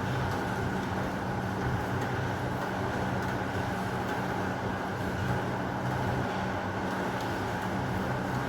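Steady heavy rain: an even hiss with a faint low hum underneath and no thunder.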